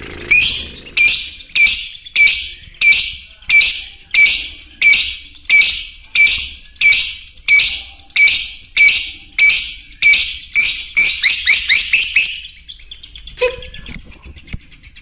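A bird repeating one loud, shrill, downward-sweeping call about one and a half times a second, quickening into a rapid run near the end, then giving way to softer, higher chirps.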